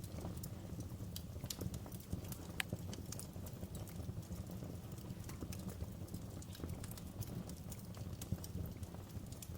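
Wood fire burning in a fireplace: a steady low rumble of flames with irregular crackles and snaps of burning wood, one sharper pop about two and a half seconds in.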